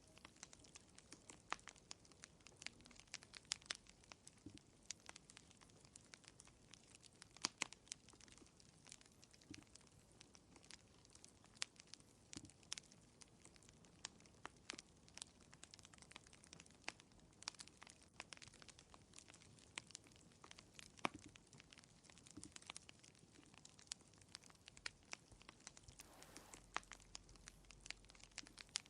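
Wood fire crackling in a fireplace: soft, irregular pops and snaps, with a few sharper, louder pops now and then, over a faint hiss. A low hum comes in near the end.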